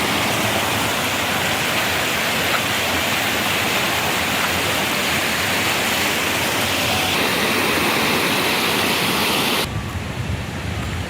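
Floodwater rushing past in a loud, steady wash of noise. About ten seconds in, it cuts abruptly to a quieter low rumble.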